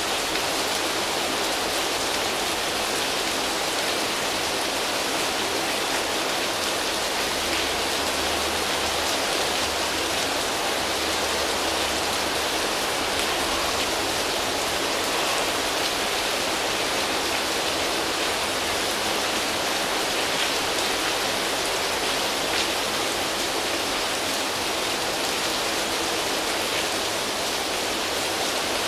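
Steady rain falling on foliage leaves: an even hiss of drops that does not change.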